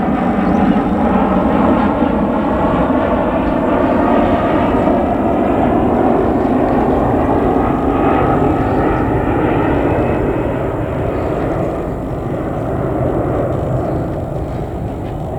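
Airbus A319-111 jet engines running loud and steady as the airliner passes, with slowly sliding tones through the noise. The sound eases off a little after about twelve seconds.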